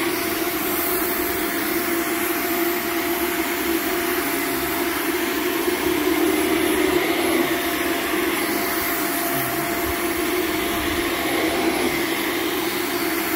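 Shark Vertex upright vacuum cleaner running steadily as it vacuums a rug: a constant motor drone with a thin steady whine over it.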